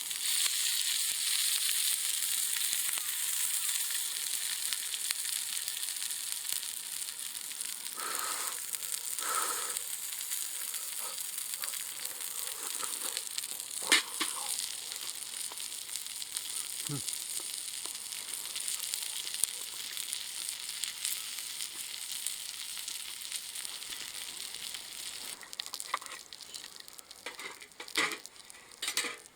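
Food sizzling in a frying pan over a wood fire, a steady sizzle that slowly dies down, with a few sharp knocks and clicks, one about halfway through and one near the end.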